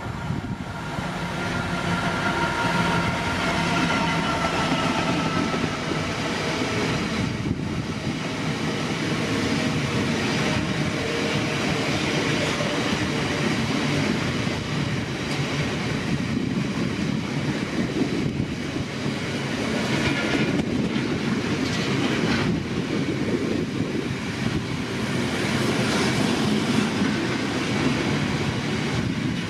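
Freight train passing, its wagons rolling steadily along the track for the whole stretch, with a few pitched tones in the first few seconds and scattered knocks of wheels over rail joints.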